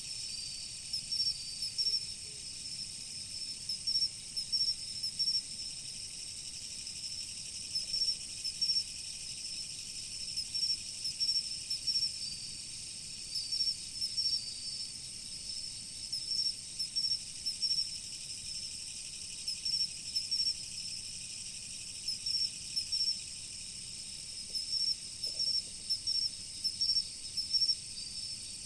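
Chorus of autumn crickets: a steady high trill with groups of short, quick chirps repeating every second or two over it, and a faint rush of flowing river water underneath.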